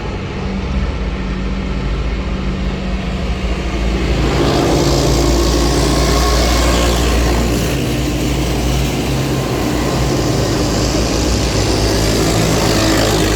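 Diesel engines of a convoy of K55 self-propelled howitzers running past at close range, growing louder about four seconds in and staying loud.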